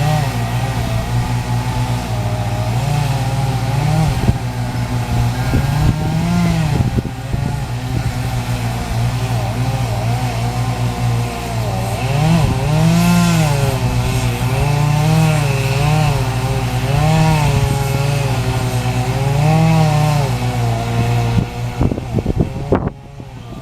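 Chainsaw engine running under load, its pitch repeatedly rising and sagging as it cuts through wood. It drops away near the end.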